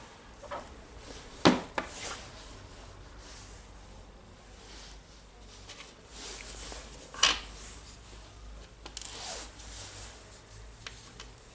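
Small metal parts of a rotary hammer's clutch and gearbox being handled and fitted by hand: rubbing and scraping with light clinks, and two sharper knocks, one about a second and a half in and one about seven seconds in.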